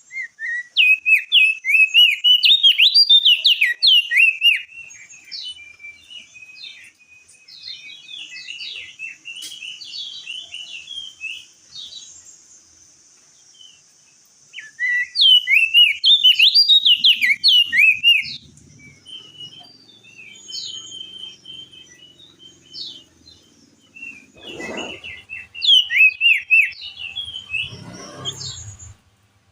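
Crested darkeye (opior jambul) singing: three loud bursts of rapid, jerky high chattering notes a few seconds long, with quieter scattered calls in between. Two dull thumps come near the end.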